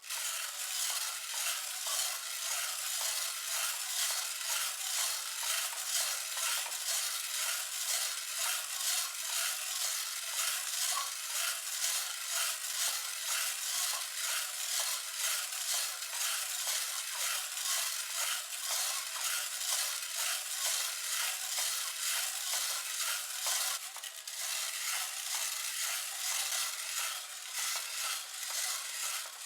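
Coffee beans being stirred in a pan as they roast, a steady rustling rattle that pulses about twice a second.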